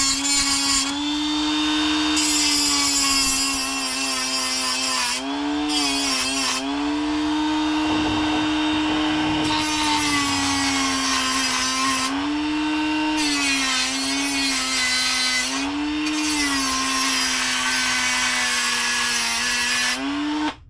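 Dremel rotary tool running with a steady high whine, grinding the cut end of an RC motor shaft smooth. Its pitch sags and recovers several times, and it cuts off suddenly at the end.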